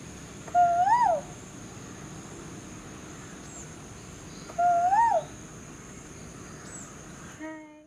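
A bird calls twice, about four seconds apart, with a clear whistled note that rises and then drops sharply, over a steady high whine.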